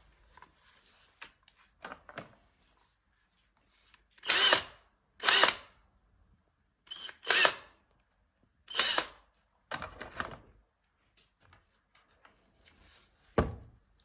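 Cordless 18V impact wrench run in about five short bursts of roughly half a second each, with quiet gaps between, then a single sharp knock near the end.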